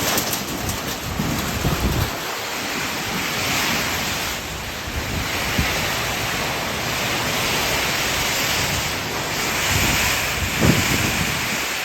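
Summer thunderstorm: heavy rain and wind making a steady rushing hiss, with low rumbling gusts in the first two seconds and again near the end.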